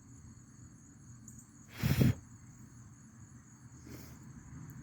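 Insects trilling steadily in a continuous high-pitched chorus. About two seconds in, a brief, loud, rushing noise cuts across it.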